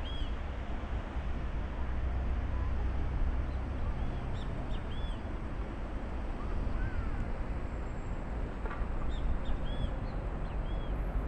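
Birds calling in short, repeated high chirps, in clusters about four seconds in and again near the end, over a steady low rumble.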